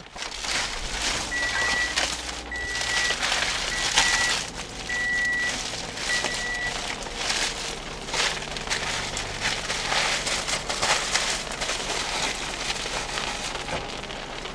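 Heavy rain pouring down and pattering on hard surfaces, a dense hiss full of drop impacts. In the first half, five short high beeps repeat about once a second.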